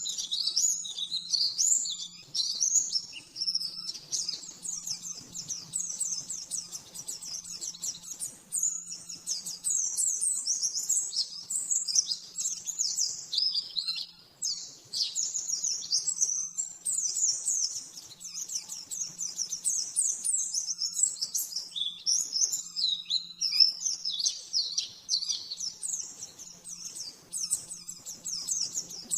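A white-eye (pleci) singing a continuous, rapid, high-pitched twittering song of fast sweeping notes, broken by a few brief pauses.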